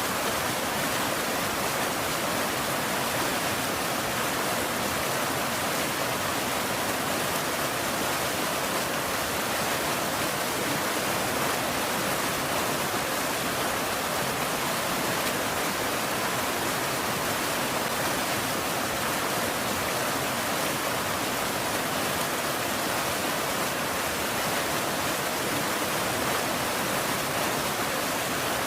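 Steady rain falling, an even wash of sound with no separate drops or thunder standing out.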